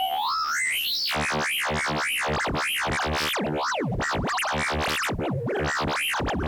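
Modular synthesizer through a Make Noise Echophon pitch-shifting echo: a tone glides steeply upward in the first second, then breaks into repeated sweeps of pitch rising and falling about twice a second over a dense buzzing chord.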